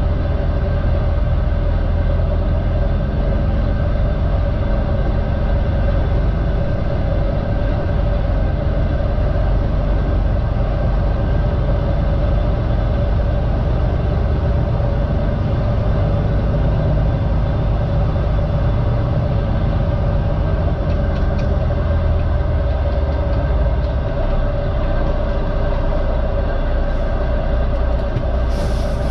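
Heavy truck's diesel engine running steadily: a constant low drone with a steady hum, as during slow manoeuvring.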